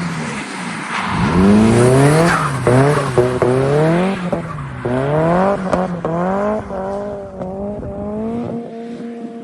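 Nissan Silvia S15 drift car engine revving hard, its pitch climbing and falling back several times, with tyre squeal. Near the end it settles to a steady, even note.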